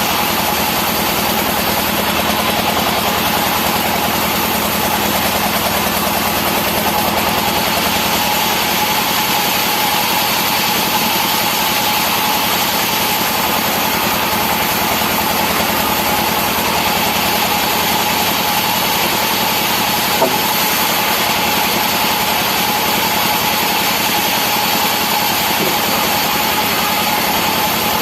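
Engine-driven wood saw running steadily at a constant pitch, a continuous machine drone with a high steady whine through it, with a single small tick about twenty seconds in.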